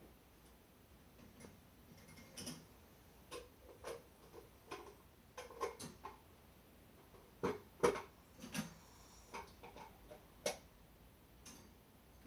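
A sleeping dog snoring in short, irregular clicking snorts that come in small clusters, the loudest about eight seconds in.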